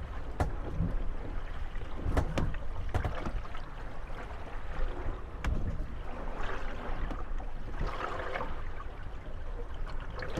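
Moored wooden gondolas rocking on choppy water: waves slosh against the hulls, with a few sharp knocks as the boats bump together.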